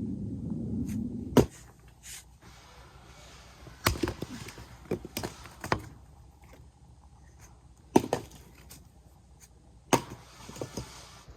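Axe chopping firewood: separate sharp chops with lighter wooden knocks between them. The loudest chops come about a second in and about eight seconds in. A low rumble at the start stops with the first chop.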